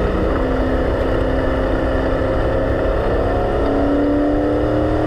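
Race car engine running hard, heard from inside the cockpit over a low rumble of road and wind noise. Its pitch holds fairly steady, then steps up and climbs gently from about three and a half seconds in as the car accelerates.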